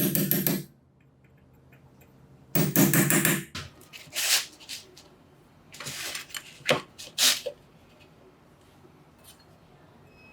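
Hitachi PR-50 electric rotary hammer drill running in two short bursts, a motor hum with rapid hammer blows, the first stopping just under a second in and the second lasting about a second. Several separate knocks and clinks follow in the middle of the stretch.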